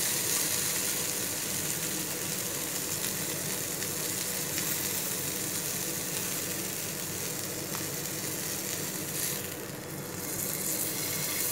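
Mutton rolls sizzling steadily in shallow oil in a frying pan, with a few light clicks of metal tongs as the rolls are turned and lifted out. The sizzle thins for a moment near the end.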